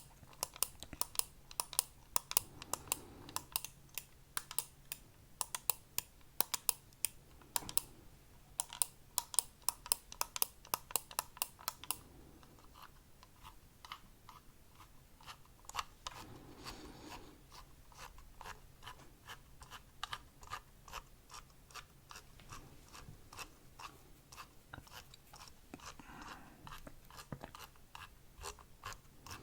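Close-miked ASMR trigger sounds: rapid small clicks and taps, dense for roughly the first twelve seconds, then softer and more scattered.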